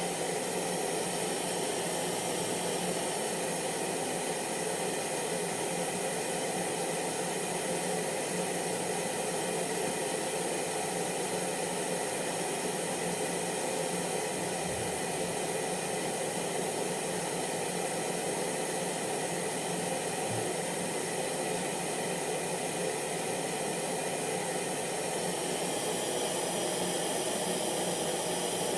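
Hair dryer running steadily, a continuous airy blowing with a low motor hum under it. The noise changes slightly in its upper range near the end.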